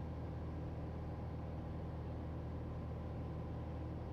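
Steady drone of a Cessna 182 Skylane's six-cylinder O-470-based engine (Northpoint XP470) and propeller heard in the cockpit, running evenly at cruise power of about 24 inches and 2350 RPM.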